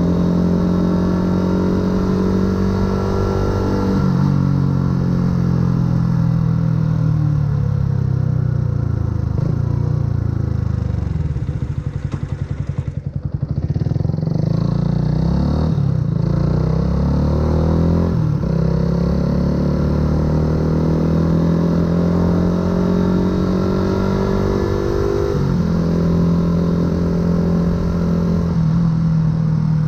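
Yamaha YZF-R125's single-cylinder four-stroke engine through a full aftermarket exhaust, heard on board while riding. The note shifts in a step about four seconds in. Around the middle the revs fall and the sound drops as the bike slows, then it pulls away again through several gear changes.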